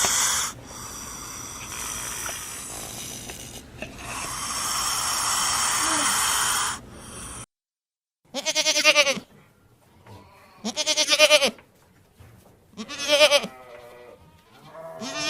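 An animal bleating four times, each call under a second long and about two seconds apart. Before the bleats comes a noisy hiss with steady high tones, which stops abruptly about seven seconds in.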